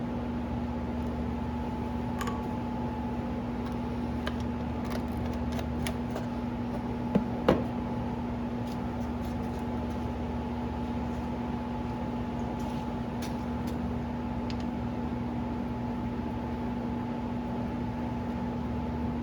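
A steady machine hum holding two even tones over a low rumble, with a couple of light knocks about seven seconds in.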